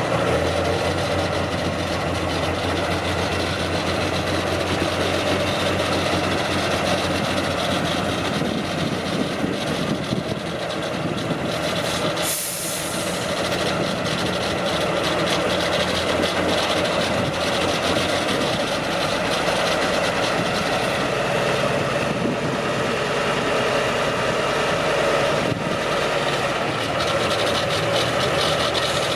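Heavy off-road truck engine running at low revs, its pitch stepping up and down as the load changes. A short, sharp hiss sounds about twelve seconds in.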